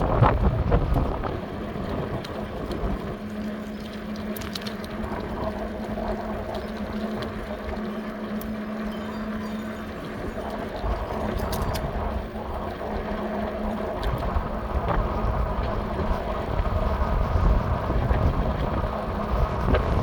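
Strong wind buffeting the microphone on a moving e-bike, as gusty low rumbling that is heaviest near the start and again near the end. A steady low hum runs through roughly the first half.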